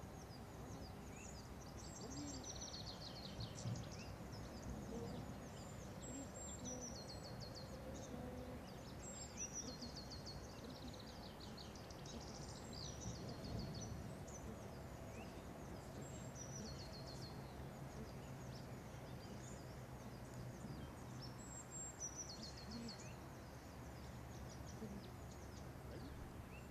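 Songbirds singing, one repeating a short phrase of quick descending notes every few seconds, over faint steady outdoor background noise.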